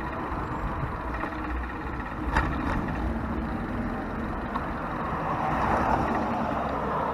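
Steady road traffic on a busy street, heard from a bicycle riding along the sidewalk, swelling about six seconds in as a vehicle goes by. A single knock about two and a half seconds in.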